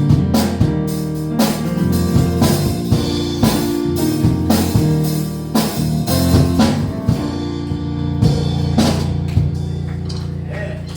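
Live gospel band playing an instrumental passage: drum kit keeping a steady beat over sustained bass and guitar chords. After about eight seconds the drum hits drop away and the chords ring on, getting quieter.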